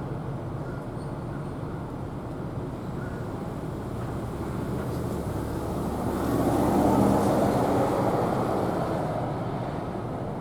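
A vehicle passing close by, its noise swelling to a peak about seven seconds in and fading away, over a steady low rumble of traffic.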